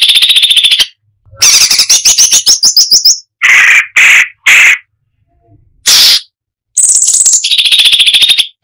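Cucak cungkok songbird singing loud, fast rattling trills in phrases about a second long, broken by short gaps, with three short buzzy notes in quick succession partway through: a dense, rapid-fire song of the kind used as a training recording for other songbirds.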